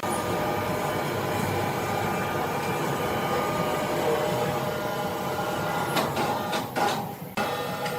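Sawmill machinery running: a steady mechanical rattle and hum, with a few sharp knocks and clatters near the end.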